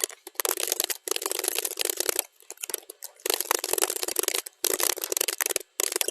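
Computer keyboard typing at a rapid, steady clip of key clicks, sped up to double speed, with a pause of about a second a little past two seconds in and a couple of brief gaps later.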